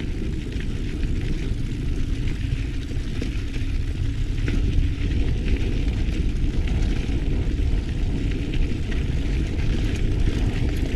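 Wind rumbling over the microphone of a mountain bike rolling along a trail, with a scattered crackle of the tyres on the trail surface.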